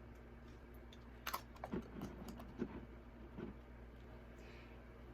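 A few faint, short clicks and light knocks, starting about a second in and scattered over the next two seconds, over a steady low hum.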